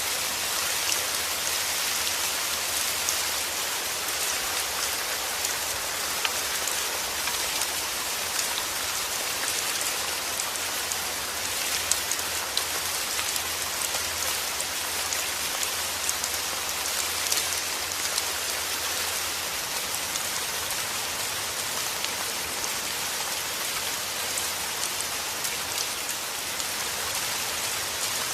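Steady heavy rain: a dense, even hiss with scattered sharper drop ticks. A faint low rumble sits underneath and fades out about two-thirds of the way through.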